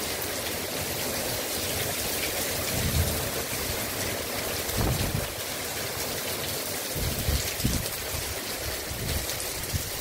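Heavy rain pouring steadily in strong wind, a dense hiss of water, with a few brief low gusts buffeting the microphone.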